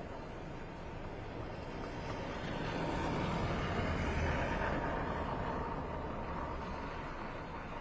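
A vehicle passing by, its sound swelling to a peak about four seconds in and then fading away.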